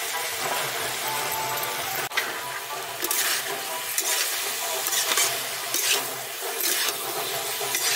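Drumstick and tomato masala sizzling in an iron kadai. From about three seconds in, a metal ladle stirs and scrapes through it in repeated strokes.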